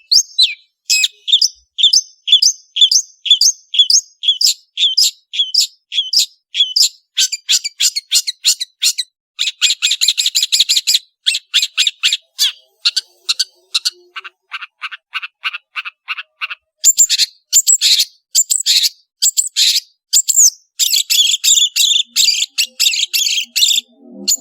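Long-tailed shrike singing a long, varied song of short, high-pitched notes: at first a steady series of about three notes a second, then faster, denser runs about ten seconds in and again in the last third.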